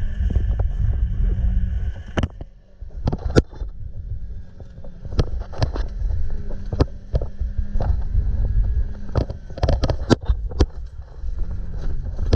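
Stock NB Mazda Miata's four-cylinder engine running hard during a wet autocross run, over a heavy low rumble of wind and road noise. Sharp clicks and knocks come now and then, bunched a couple of seconds in and again near ten seconds.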